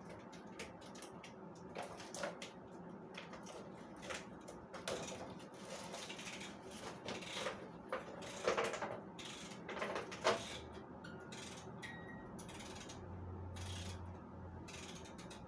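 Faint, scattered rustling and clicking of packaging as a pet plays with it, with a few louder clicks now and then.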